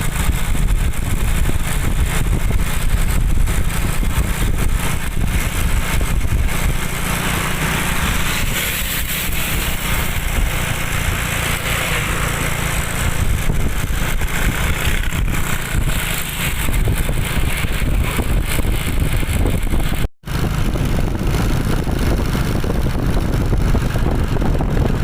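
Steady motor vehicle noise with a heavy low rumble and hiss. It drops out for an instant about twenty seconds in.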